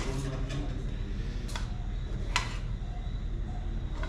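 A few sharp clinks of cooking utensils against a pot or dish, spaced out, the loudest about two and a half seconds in, over a steady low hum.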